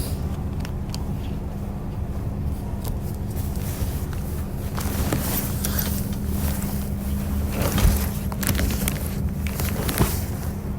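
Diesel railcar's engine running steadily with a low hum, heard from on board, with scattered clicks and knocks through the middle of the stretch.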